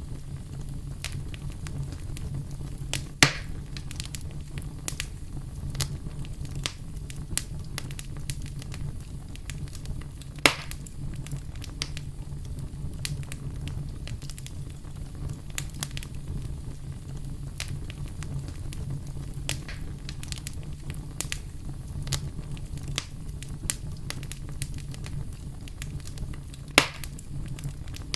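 Wood fire crackling: a steady low rumble under frequent small snaps, with three louder pops, about three seconds in, about ten seconds in, and near the end.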